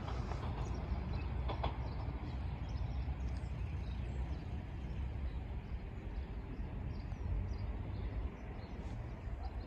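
Class 197 diesel multiple unit running away from the level crossing: a steady low rumble that eases a little near the end.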